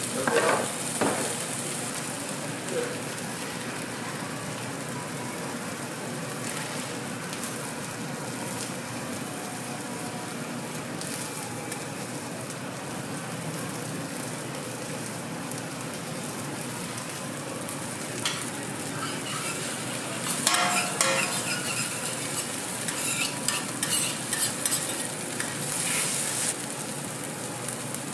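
Steady sizzling of food frying in oil on a flat-top griddle: an egg, cabbage and spring onion batter and scored sausages. Scattered clicks and clatters sound over it, bunched together in the last third.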